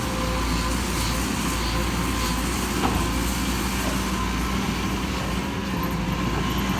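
Heavy diesel engine running steadily at a constant low drone, typical of a dump truck or excavator working at an earth pit.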